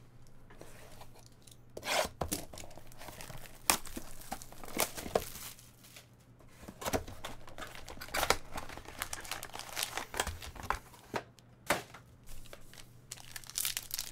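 Trading card pack wrappers being torn open and crinkled, with irregular sharp crackles and rips throughout.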